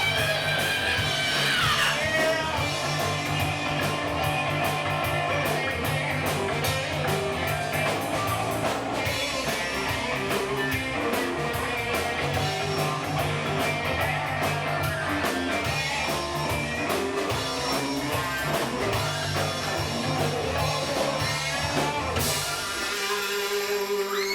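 Live rock band playing: electric guitar, bass and drum kit with a steady beat. The song ends with a final crash about a second before the end, leaving a ringing chord.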